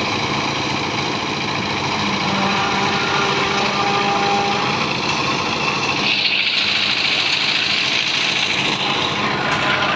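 A small engine or machine running steadily, with a harsher, higher-pitched noise joining about six seconds in.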